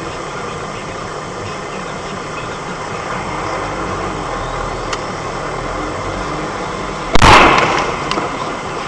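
Vehicle running noise heard from inside the cab, then about seven seconds in a single loud, sudden crash of a road collision that dies away over about a second.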